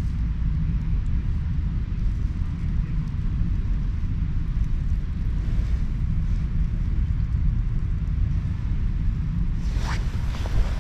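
Wind buffeting the camera microphone: a steady low rumble, with a brief higher swish near the end.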